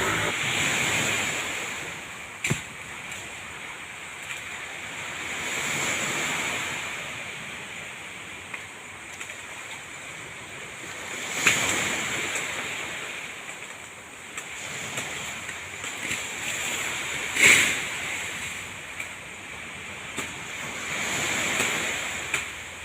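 Wind gusting, a rushing noise that swells and fades every few seconds, with a few sharp knocks; the loudest knock comes about three-quarters of the way through.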